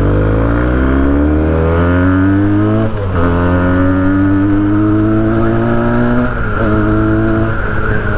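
Benelli TNT 300's two-cylinder engine accelerating under way, its pitch climbing through each gear. It drops sharply at an upshift about three seconds in and again a little after six seconds, then holds fairly steady.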